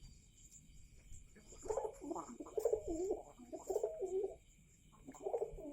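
Java pigeon cooing in its cage: a run of warbling coos starting about a second and a half in and lasting about three seconds, then another run starting near the end.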